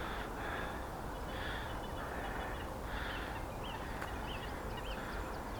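Crows cawing in a repeated series of harsh calls, with a small bird chirping faintly in the second half.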